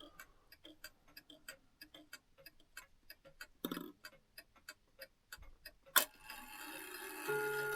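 Herschede clock movement ticking steadily. About six seconds in a loud click sets off the chime train, whose gears whir, and near the end a hammer strikes the first chime bar, which rings.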